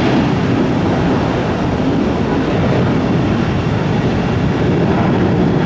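Jet airliner engines at takeoff power, a loud steady rumble.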